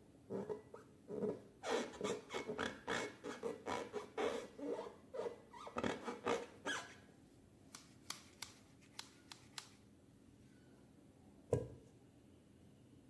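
Slime being squished and mixed by hand: a busy run of quick wet clicks and squelches for about seven seconds, then a few sharp clicks, and a single thump near the end.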